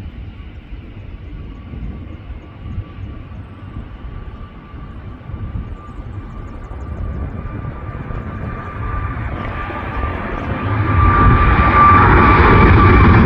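Jet airliner's engines on takeoff: a steady high whine over a rumble and rush, growing steadily louder and much louder in the last few seconds as the aircraft comes closer.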